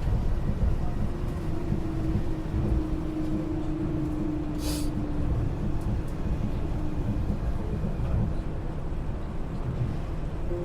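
Yui Rail straddle-beam monorail running on its rubber tyres between stations, heard from inside the car: a steady low rumble, with a motor whine holding one tone for several seconds. A brief hiss comes about halfway through.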